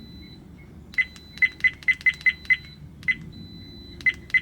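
Redtiger FN7 dashcam's key-press beeps as its settings menu is stepped through: about ten short, high beeps at uneven spacing, a quick run of seven about a second in, then a few more spread out.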